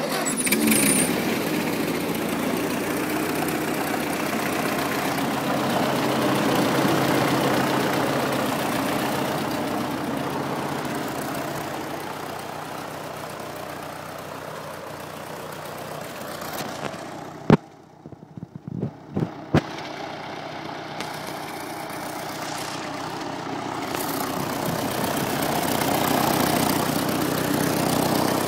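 Ford 8N tractor's four-cylinder flathead engine running just after starting, its speed swelling and easing. About two-thirds of the way through the sound briefly drops away with a few sharp clicks, then builds again.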